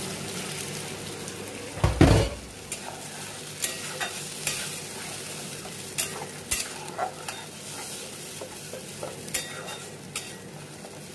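Wet spice paste sizzling as it fries in hot oil in a pan, with one loud thump about two seconds in, then a metal spatula stirring and scraping the paste, clicking against the pan again and again.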